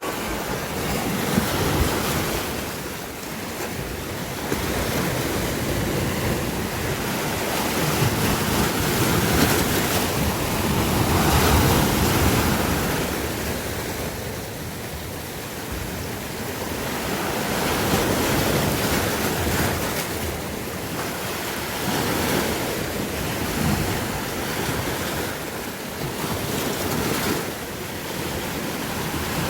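Sea waves washing on the shore, swelling and ebbing every few seconds, with wind on the microphone.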